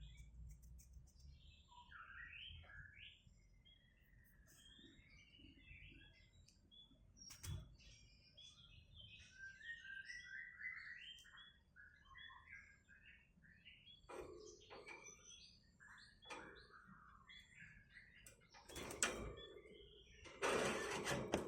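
Sooty-headed bulbul giving short, scattered chirps and twitters, with a couple of sharp knocks in between and a brief loud rustling burst near the end.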